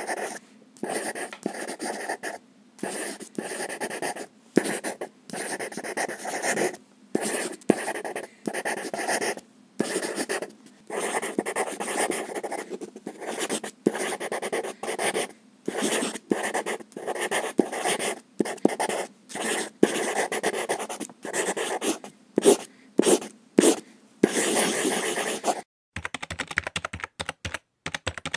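Handwriting: a long series of scratchy writing strokes of varying length with short pauses between them. Near the end it changes to rapid clicking of typing on a computer keyboard.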